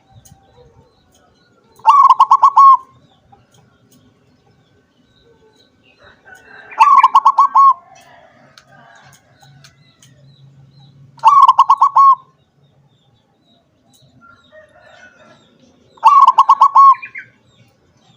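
Zebra dove (perkutut) cooing: four song phrases spaced about four to five seconds apart, each a quick run of rolling notes lasting under a second. Faint small chirps sound between the phrases.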